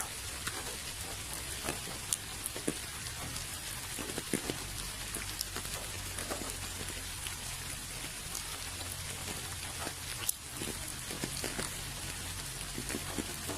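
Steady rain hissing, with many individual drops ticking sharply close by and a low rumble underneath.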